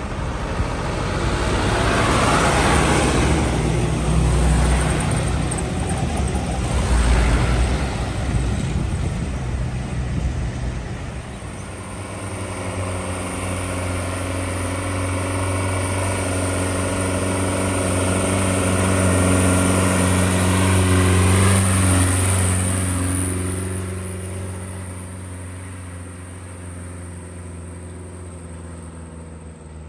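Heavy diesel vehicles passing one after another: a noisy rush for the first ten seconds or so, then a steady diesel engine note that builds to its loudest about twenty seconds in and fades away.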